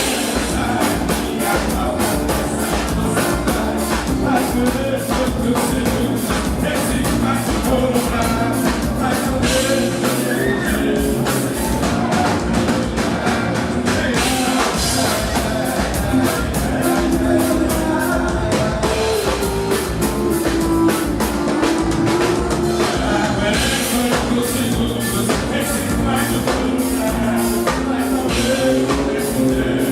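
Band music with a drum kit keeping a steady beat under a melody line.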